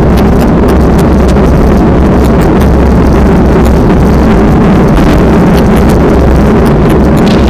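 Strong wind buffeting the microphone: a loud, steady rumbling roar with fine crackles over it.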